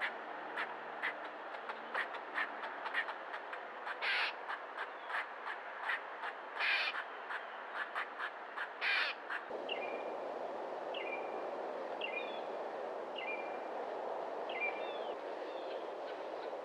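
Three loud, harsh calls from a crow-family bird over a run of sharp clicks, about two or three a second. After a cut about halfway through, a small bird repeats a short falling call roughly once a second.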